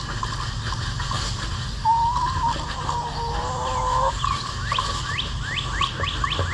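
Backyard hens calling: one drawn-out call lasting about two seconds, then a quick run of falling chirps near the end, over a steady low rumble.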